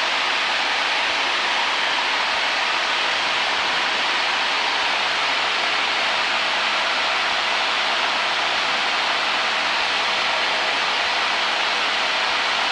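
Cessna 172 in flight: steady cockpit noise of the engine, propeller and rushing air, an unbroken hiss with a faint hum beneath it.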